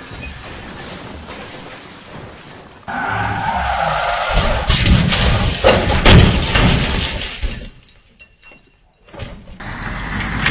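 Road vehicle noise, then a loud car crash about five to six seconds in, with impacts and breaking, shattering sounds.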